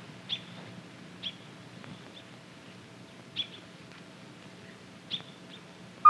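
Short, high bird chirps, about five of them spaced a second or so apart, over a faint steady low hum.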